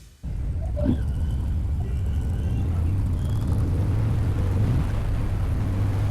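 Motorcycle engine running steadily with a low rumble while riding.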